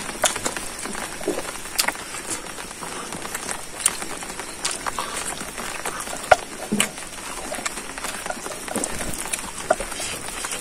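Close-up eating sounds of a person chewing braised pork leg and rice by hand: irregular wet clicks and lip-smacks, a few sharper snaps among them, over a steady background hiss.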